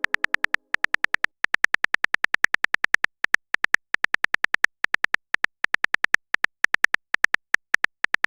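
Keyboard-typing sound effect: a rapid run of short, identical clicks, about seven a second, with a few brief pauses.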